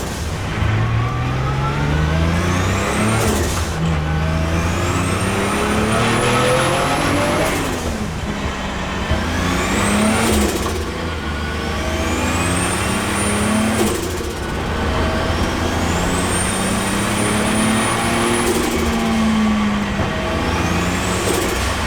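A BMW E46 M3's swapped-in turbocharged Toyota 2JZ straight-six accelerating hard through the gears: about six pulls, each a rising whine that stops at a gear change with a sharp hiss.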